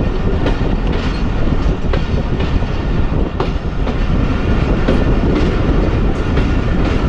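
Passenger train coach rolling on the tracks, heard from on board: a steady rumble with a few faint clicks of the wheels over rail joints.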